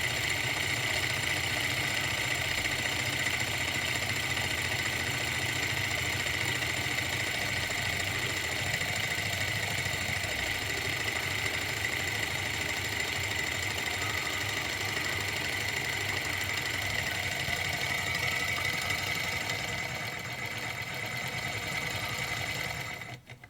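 Model Stirling engine generator running steadily with a high whine, slowing as it cools once the flame is out, then cutting off near the end.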